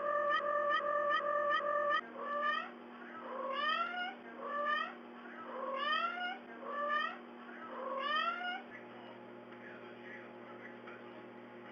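Rapid electronic beeping, about five beeps a second, stops about two seconds in. Then a cat meows six times, in short calls that each rise in pitch, before it falls quiet.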